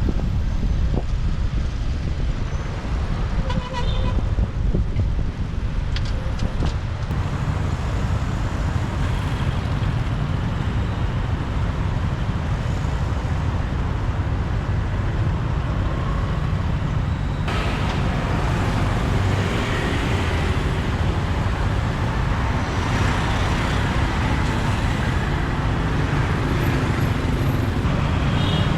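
City street traffic heard from a moving motorbike: a steady low rumble of engine, tyres and wind on the microphone. A horn toots about four seconds in and again near the end.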